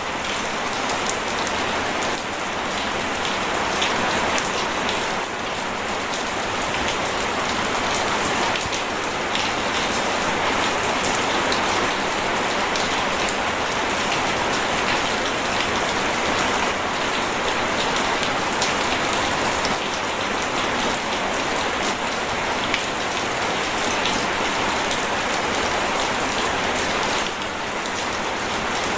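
Steady rain falling: an even, unbroken hiss of many small drop impacts, with no thunder.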